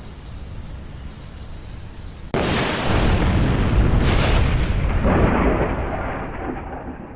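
Steady rain hiss, then about two seconds in a sudden close thunderclap, with a second crack about a second and a half later, rolling and fading away over the following few seconds.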